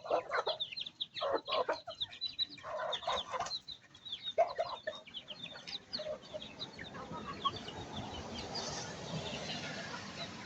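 Chickens clucking, with many short high-pitched peeps mixed in. The calls come thick for about the first six seconds, then thin out to scattered peeps over a steady hiss.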